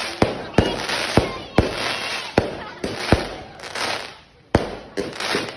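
Fireworks going off: a run of sharp bangs at irregular intervals over a continuous crackling hiss. The crackle dies away briefly about four seconds in, and a loud bang breaks the lull.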